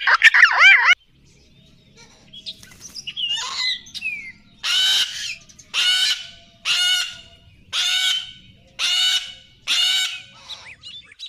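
Sulphur-crested cockatoo screeching: after a brief burst of wavering calls and a few softer calls, six loud screeches follow about a second apart, each lasting about half a second.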